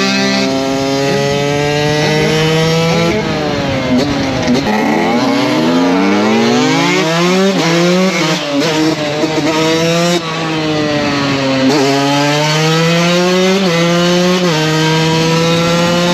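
KTM 125 SX two-stroke engine revving hard while being ridden. The note climbs and then drops back in steps at several gear changes; about four seconds in it falls away and climbs again before more upshifts.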